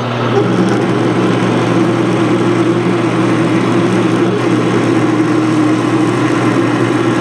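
Metal lathe running at about 340 RPM while a 3/4-inch drill bit fed from the tailstock cuts into the workpiece. A steady hum with a steady cutting tone that comes in just after the start and holds.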